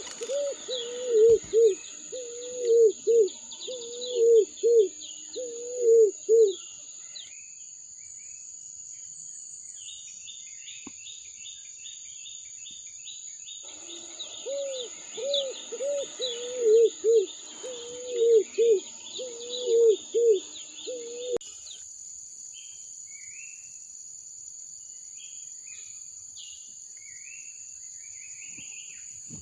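Birds calling: one bird gives loud, low, repeated notes in two long bouts, the second stopping abruptly about two-thirds through, while smaller birds chirp at a higher pitch throughout. Beneath them runs a steady high-pitched whine.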